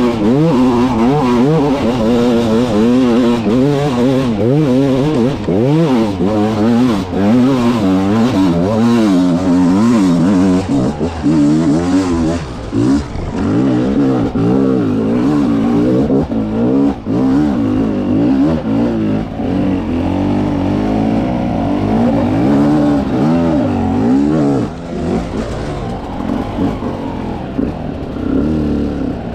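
300 cc two-stroke dirt bike engine revving up and down again and again as the rider works the throttle over rough, technical ground, with occasional sharp knocks and clatter from the bike. About three-quarters of the way through it settles a little quieter and steadier.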